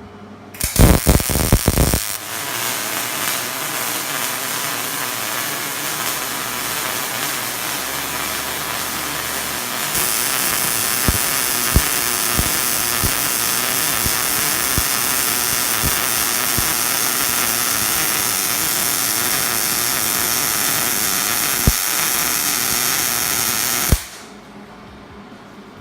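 300-amp Hobart MIG welder arc crackling steadily while welding seams in 14-gauge cold-rolled steel, with a few sharp pops of spatter; the arc gets brighter about ten seconds in and cuts off suddenly near the end. A few knocks come just before it starts.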